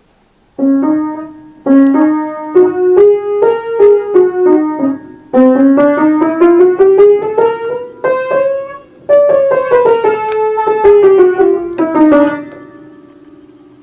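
Piano keyboard playing a short melody in separate phrases: a rising run of quick notes, then a falling run, with the last note ringing on and fading away near the end.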